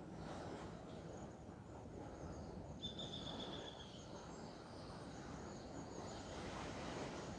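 Faint outdoor ambience: a steady low background hum of environmental noise. Around three seconds in comes a high, thin call that lasts about a second and falls slightly, with fainter high-pitched calls above it.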